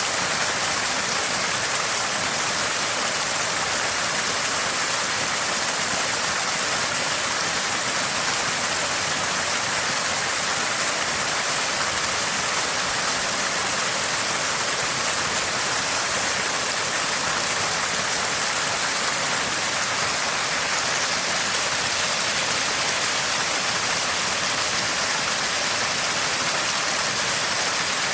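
Water gushing from a small spring, splashing with a steady, constant gurgle.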